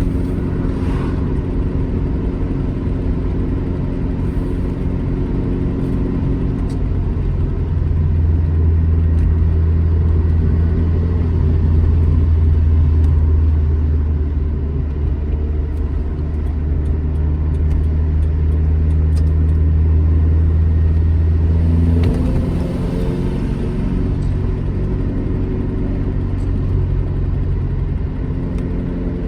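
Classic Alfa Romeo GT Junior's twin-cam four-cylinder engine running under way, with a steady engine note. About a quarter of the way in the note drops into a loud, deep drone. About three-quarters through it changes abruptly back to a higher, lighter note.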